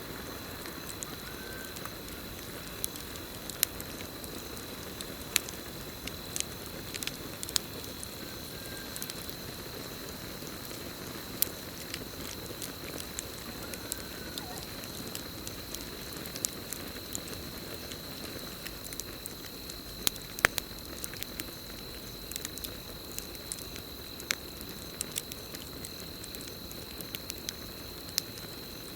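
Campfire burning, with irregular crackles and sharp pops over a steady hiss, the loudest pops about twenty seconds in. A steady high cricket trill runs underneath.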